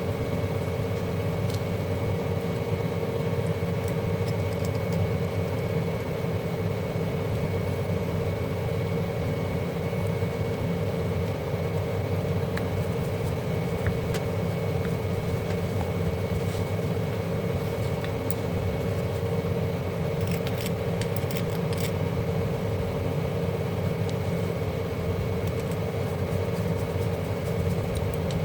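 A steady machine hum with a constant whine in it, unchanging throughout, with a few light clicks near the end.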